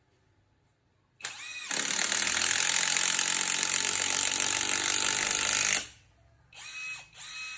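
KingBlue brushless cordless impact driver driving a 10 cm wood screw. About a second in the motor whines up, then the impact hammer rattles steadily for about four seconds as the screw goes in, and stops suddenly. Near the end, two short trigger blips spin the motor up and down.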